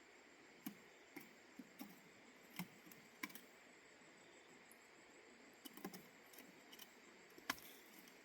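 Near silence with about a dozen faint, scattered clicks and taps over a low steady hiss; the sharpest tap comes near the end.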